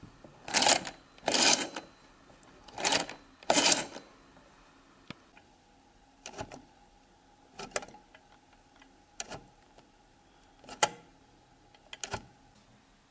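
Old rotary telephone's internal mechanism clicking and clattering: four short rattling clatters in the first four seconds, then lighter single clicks about every second and a half.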